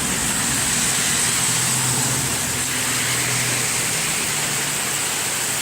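Heavy rain pouring down in a steady hiss. Under it, a car's engine hums low for a few seconds in the middle as it goes by on the wet street.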